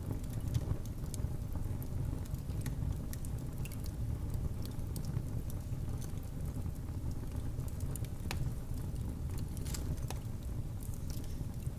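Wood fire burning in a fireplace: a low, steady rumble of flames with scattered sharp crackles and pops throughout.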